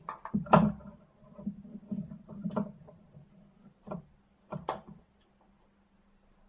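Irregular clicks and knocks of handling, over a low hum that stops about five seconds in.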